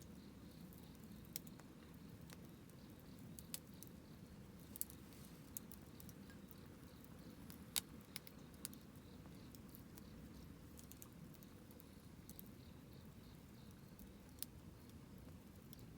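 Wood campfire burning quietly with a low steady rumble and scattered sharp pops and crackles from the burning wood, the loudest about eight seconds in.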